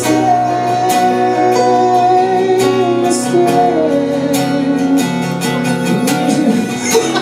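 Live band music: strummed guitar with the band, and a male lead vocal holding a long note in the first couple of seconds.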